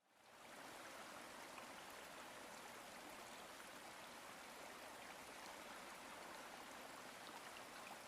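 Faint, steady rushing hiss of background noise with a few tiny ticks, fading in over the first half second.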